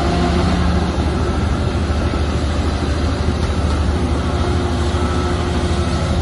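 Heavy diesel engine of earthmoving machinery running steadily with a low, even rumble.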